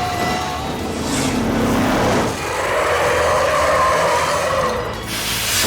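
Cartoon sound effects of a vehicle skidding: wheels screech in a steady squeal for a couple of seconds, over background music, with a sharp whoosh near the end.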